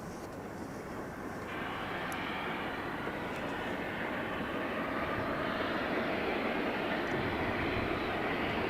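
A train passing, a steady rushing rumble that grows louder, with a step up about one and a half seconds in.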